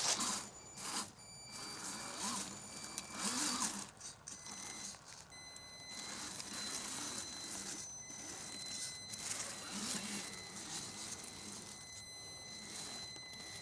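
Electric motor of a radio-controlled Vaterra Chevrolet Blazer K5 crawler giving a steady high whine as the truck crawls along. Irregular rustling comes in the first few seconds.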